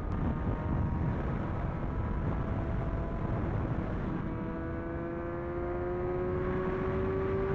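Sport motorcycle engine running at cruise, then pulling under gentle acceleration, its pitch climbing slowly from about halfway through, over a heavy rumble of wind and road noise.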